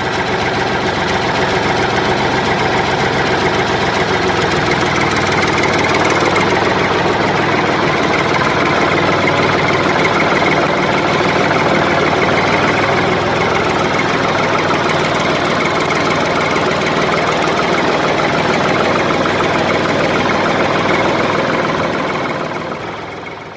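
Tractor-type engine running steadily with a rapid knocking beat, fading out near the end.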